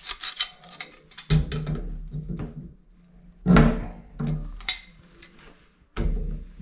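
Metal tools knocking and scraping against a shower valve's fittings while a stuck bonnet nut is worked loose to get the old cartridge out: a string of irregular clanks and scrapes, the loudest about halfway through.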